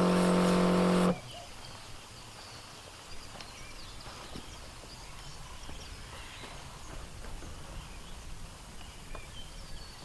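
A 12V portable pressure washer's electric pump running with a steady hum that cuts off suddenly about a second in. After it, a quiet outdoor background with faint bird chirps and a few light clicks.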